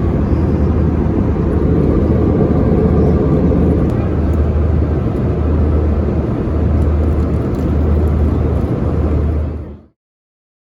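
Airbus A320 cabin noise in flight: a steady roar of engines and airflow with a low hum that swells and fades every second or so. It cuts off suddenly near the end.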